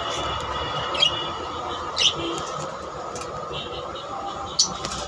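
Cockatiel giving three short, sharp chirps, about one, two and four and a half seconds in, over a steady background hum.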